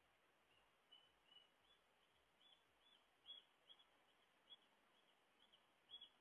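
Near silence with a small bird chirping over and over: short, high, evenly pitched chirps about twice a second, starting about half a second in.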